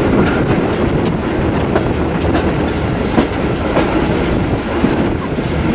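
A train running on the rails: a steady running noise with irregular wheel clicks and knocks.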